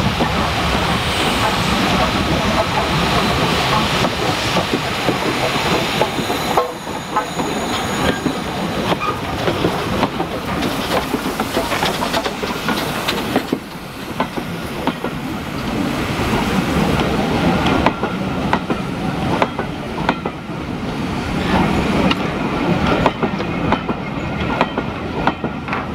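Steam locomotive hauling a train of passenger coaches passes close by at low speed, followed by the coaches rolling past with wheels clicking steadily over the rail joints.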